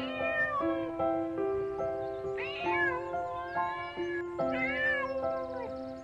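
Domestic cat meowing three times, each meow rising and then falling in pitch, over background music with held notes.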